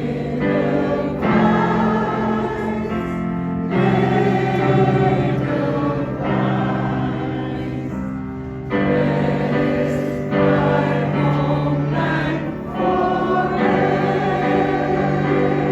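A choir singing a slow song in held phrases, with a short break in the sound about eight seconds in.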